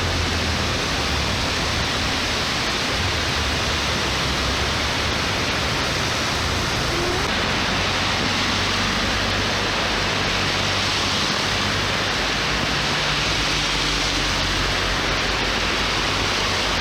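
Heavy rain and floodwater giving a steady loud rushing hiss, with a low rumble underneath.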